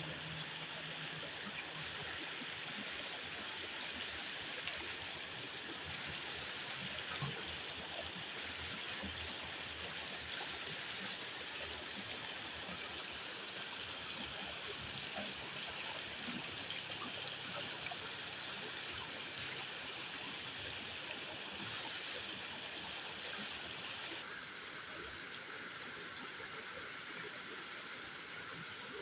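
Steady rushing water noise, a little quieter from about 24 seconds in.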